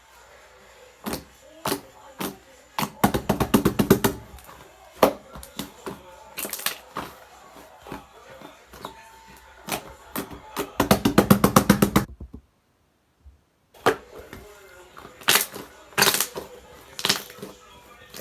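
Slime being squeezed and pressed by hand, making sharp popping clicks, with two quick crackling runs of pops about three seconds in and again near the eleven-second mark. Faint TV sound underneath.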